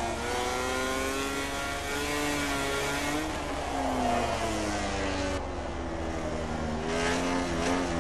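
MotoGP race motorcycles' engines running at racing speed, several engine notes rising and falling in pitch through throttle and gear changes.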